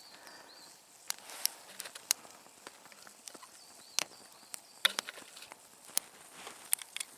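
Campfire being lit with kerosene burning in a tin can: irregular sharp crackles and snaps, one or two a second, over a faint hiss.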